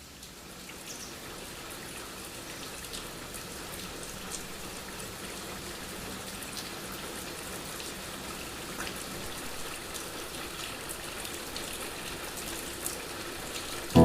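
Steady rainy-season rain falling, an even hiss with scattered individual drops ticking on surfaces, fading in at the start.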